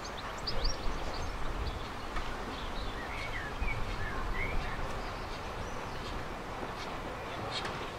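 Songbirds singing in short chirping phrases over a steady low rumble.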